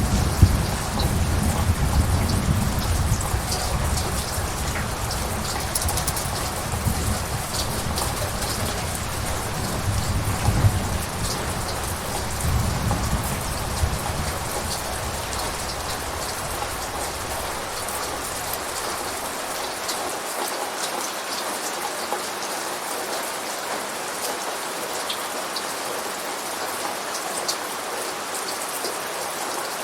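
Steady heavy rain with small droplet ticks, and a low rolling thunder rumble that fades out a little over halfway through, leaving only the rain.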